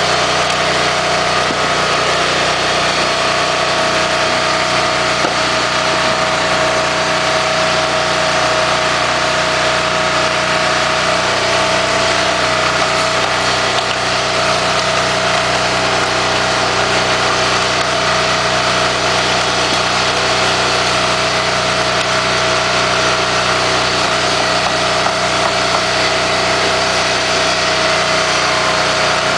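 Diesel engine of a firewood splitter running steadily, with a steady tone over the engine noise.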